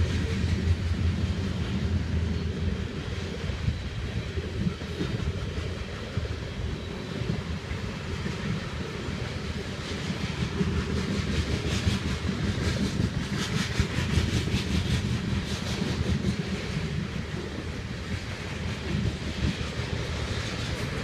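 Freight train of covered hopper cars rolling past: a steady rumble of wheels on rail, with a run of clicks from wheels crossing rail joints about halfway through.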